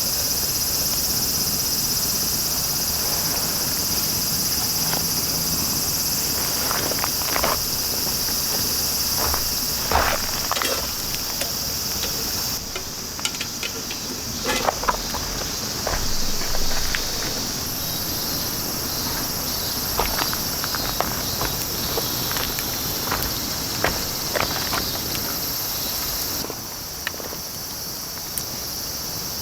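A steady, high-pitched chorus of summer insects, with scattered short clicks and knocks.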